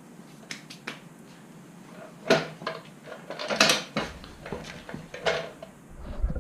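A series of light clicks and knocks from motorcycle parts and wiring being handled, with louder clacks a little over two seconds in and around the middle.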